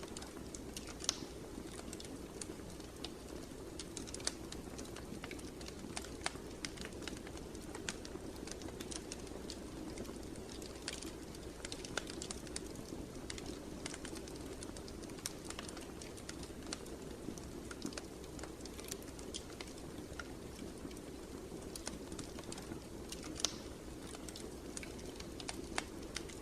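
Wood fire burning in a fireplace: a steady low rush of flame with irregular crackles and pops, a few sharper snaps among them.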